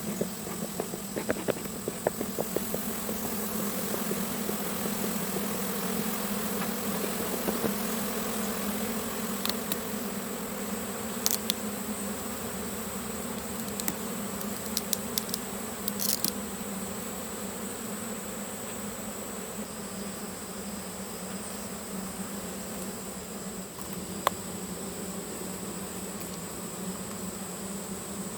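Honeybees buzzing in a steady, continuous drone around the hive, with a few brief clicks about halfway through.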